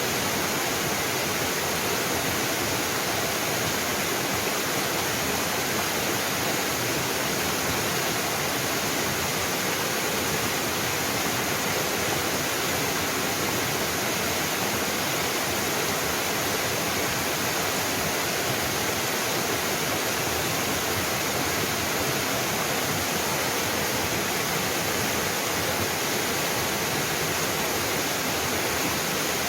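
Small mountain waterfall splashing in a steady, unbroken rush of falling water.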